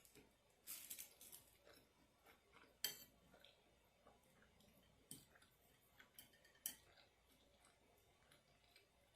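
Faint clicks and scrapes of a metal spoon against a food container, with a short run of scraping about a second in and a sharper click near three seconds.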